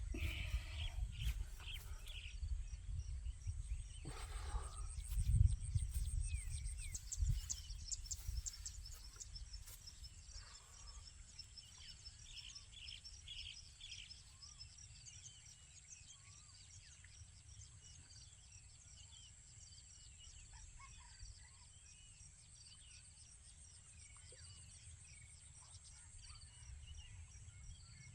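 Outdoor nature ambience: a steady high insect trill with scattered short chirping calls, over a low rumble. A few handling thumps and rustles sound in the first several seconds, then it settles to a quiet steady chorus.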